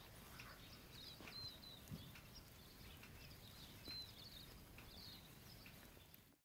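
Quiet outdoor ambience with faint, short, high bird chirps scattered through it, a couple standing out at about one and a half and four seconds in.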